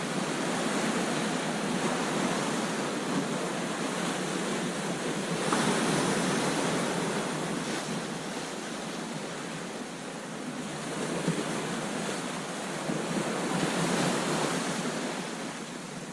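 Ocean waves crashing onto the beach: a continuous wash of surf that swells louder twice, about a third of the way in and again near the end.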